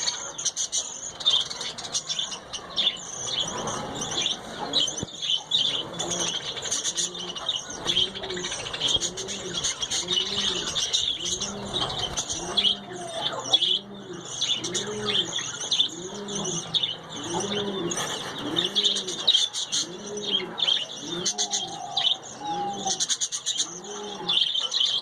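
Budgerigars chattering and warbling, a dense stream of high chirps. From about six seconds in, a low cooing call that rises and falls in pitch repeats about once a second beneath them.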